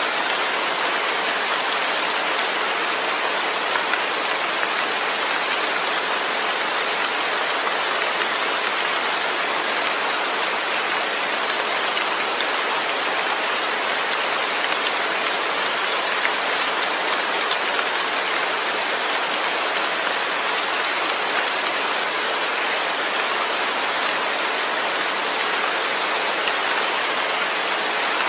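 Steady, heavy rainfall: a dense, even hiss of countless drops with no thunder.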